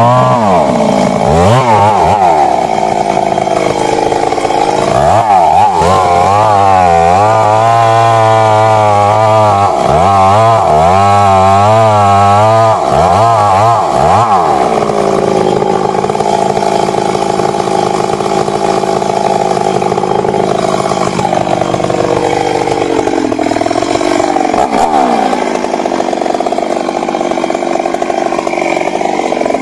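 Stihl MS 382 two-stroke chainsaw running hard. Its pitch repeatedly dips and rises through the first half, as it would when the chain bites into wood, then holds steadier through the second half.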